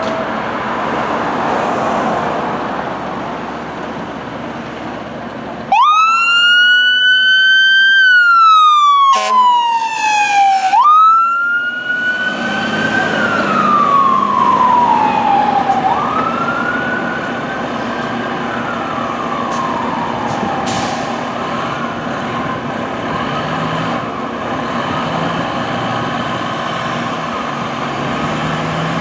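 Fire engine sirens wailing as the trucks respond, starting suddenly about six seconds in and sweeping slowly up and down in pitch, with a brief loud blast partway through. Before the sirens there is a steady rush of traffic noise.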